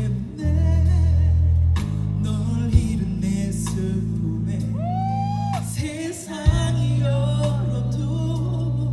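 Live band playing a ballad: long held bass notes under a wordless melodic line, with a sliding note about five seconds in.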